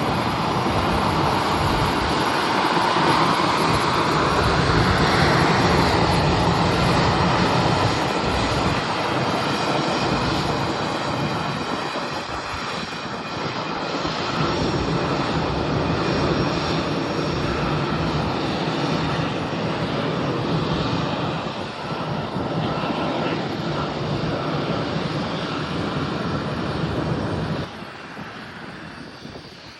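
Airliner's engines running loudly as the plane moves near the airport, loudest a few seconds in, then dropping off suddenly near the end.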